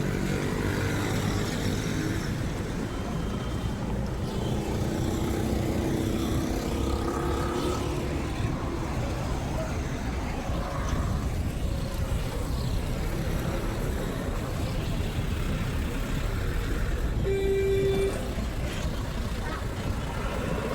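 Road traffic: a steady rumble of engines and tyres, with a short car horn toot near the end.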